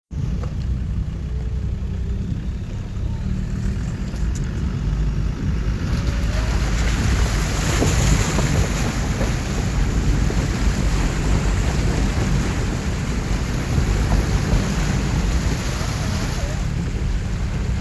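Water rushing and splashing as a vehicle fords a river, with wind buffeting the microphone. About six seconds in the splashing grows louder and brighter.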